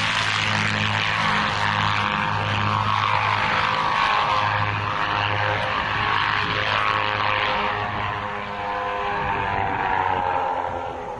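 Loud steady engine-like roar, its pitch drifting slowly down in the later seconds before it falls away near the end.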